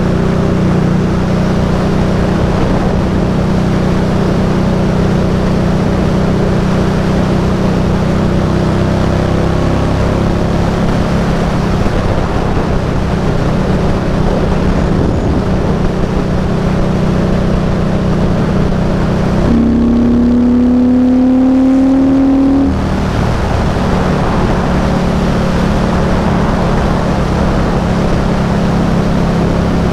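Indian Scout Bobber's V-twin engine running on the move, under heavy wind noise. About two-thirds of the way through, the wind noise drops away for about three seconds while the engine note climbs steadily, then the wind returns.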